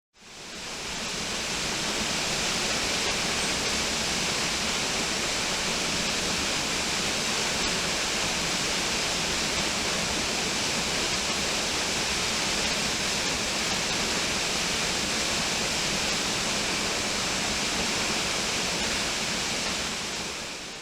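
Waterfall's steady rushing roar, water pouring and splashing without a break. It fades in over the first second or so and stops abruptly at the end.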